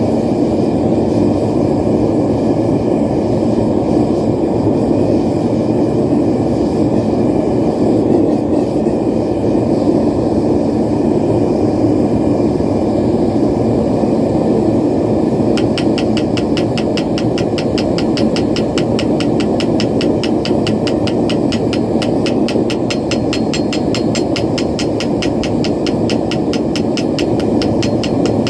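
Propane forge burner running with a steady, loud roar. From about halfway through, a fast, even series of sharp ticks, several a second, sounds over it.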